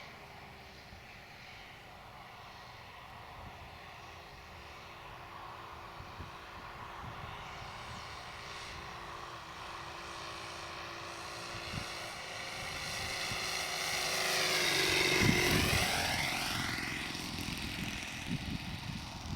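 Radio-control model airplane's Saito 40 glow engine and propeller in flight, growing louder as it approaches, then passing close about fifteen seconds in with a sharp drop in pitch and fading away.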